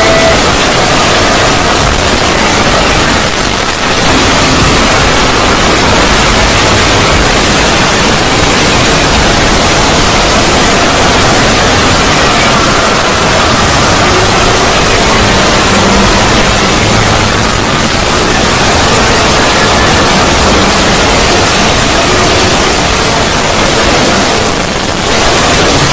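Synthetic 'void' sound effect: a loud, dense wall of static-like noise across all pitches, with faint tones buried in it. It dips briefly about four seconds in and again near the end.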